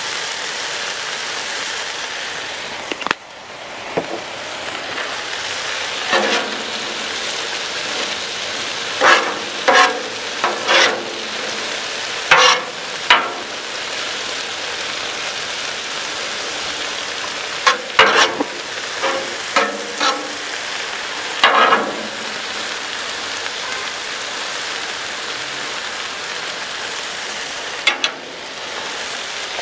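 Sliced onions and bell peppers sizzling steadily on a Blackstone flat-top steel griddle. Now and then a metal spatula scrapes and knocks against the griddle plate in short, sharp strokes as the vegetables are turned.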